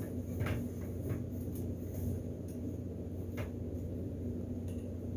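Steady low room hum with a few faint clicks and taps from small framed pictures being handled.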